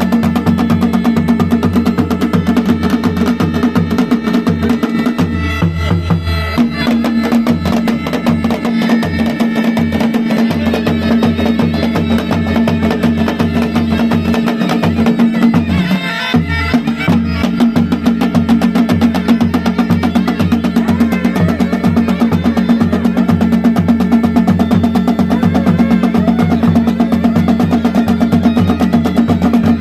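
Pahadi band: a mashak been (bagpipe) plays a melody over its steady drone, with dhol and nagada drums beating a fast, dense rhythm. The drone breaks off briefly twice, about six and sixteen seconds in.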